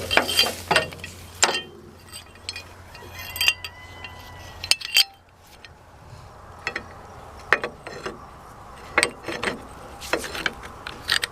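Hand tools working on metal parts: irregular sharp metallic clicks, clinks and knocks, some ringing briefly, over a steady low background.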